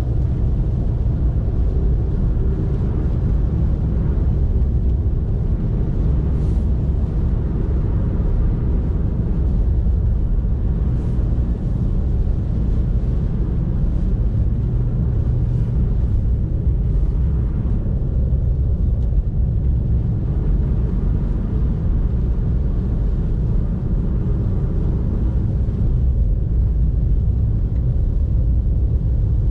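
Car driving along a road: a steady low rumble of engine and road noise, with a few faint brief hisses.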